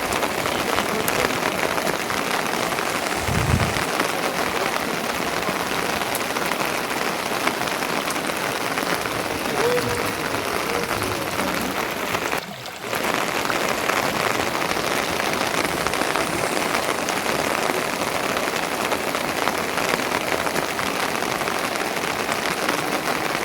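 Steady, fairly loud rain falling, an even hiss of drops. A short low thud comes about three and a half seconds in, and the sound briefly dips about halfway through.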